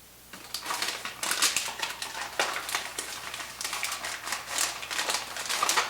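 Plastic and foil MRE packaging crinkling and rustling in irregular crackles as it is handled and folded.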